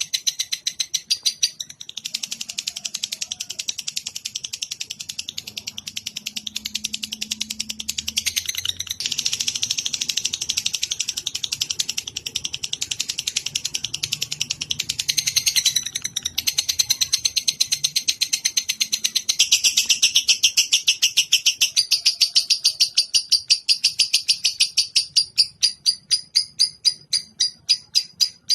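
A bird's rapid, unbroken run of high chirps, many a second, with brief breaks about 2 seconds and 16 seconds in. It is a recorded song played as masteran, tutor audio for training cage songbirds.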